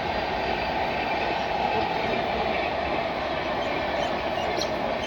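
Indian Railways express train running on the track, a steady noise of wheels and coaches. A few short high squeaks come near the end.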